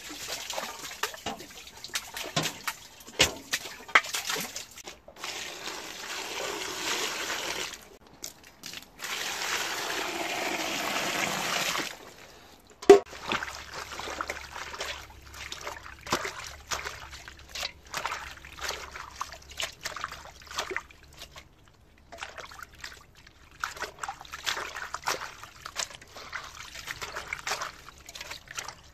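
Lettuce leaves being washed by hand in water: a steady run of water for several seconds, then a sharp knock, followed by irregular splashing, dripping and trickling as the wet leaves are handled.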